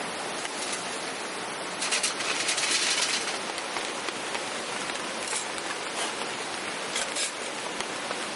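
Steady rain falling and pattering on surfaces, with a louder spell of heavier spatter about two seconds in and scattered individual drop hits later on.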